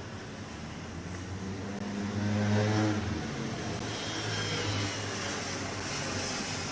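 An engine hum over a steady rush of noise, swelling to its loudest about two to three seconds in and then easing off.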